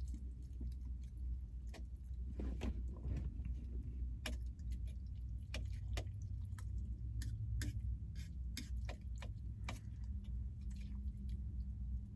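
Irregular small clicks and taps of a utensil against a cooking pot, over a steady low rumble.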